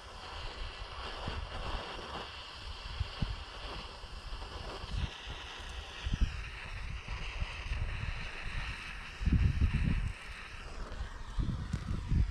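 Small handheld torch burning with a steady hiss, used to heat and thaw ice in the hydraulic fittings; the hiss shifts slightly about six seconds in and stops about eleven seconds in. Irregular low thumps and wind buffeting on the microphone run under it, loudest near the end.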